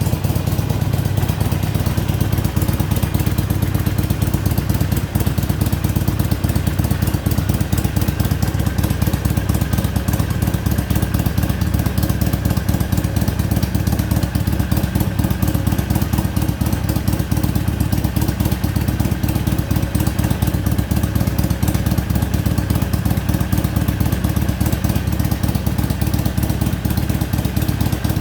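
Harley-Davidson Iron 883's air-cooled 883 cc V-twin, on its stock exhaust, idling steadily once warmed up, with an even, low pulsing beat.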